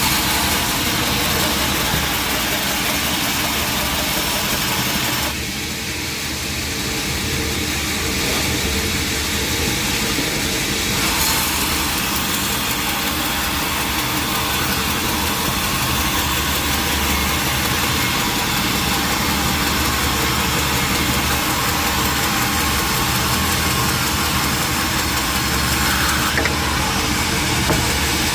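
Sawmill machinery running steadily: an engine-like hum under a wide hiss. The hiss drops away about five seconds in and comes back about six seconds later.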